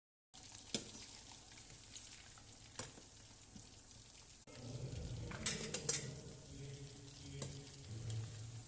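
Chicken kabab pieces frying in hot oil: a steady sizzle, louder and fuller from about halfway through, with a few sharp clinks of a utensil against the pan and a quick cluster of them near the middle.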